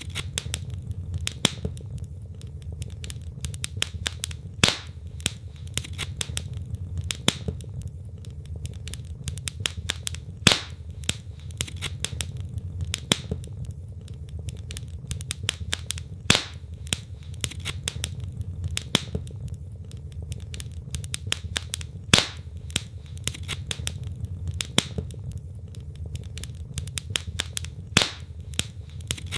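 Wood logs burning in a fireplace: dense, irregular crackling with a louder sharp pop about every six seconds, over a steady low rumble of the fire.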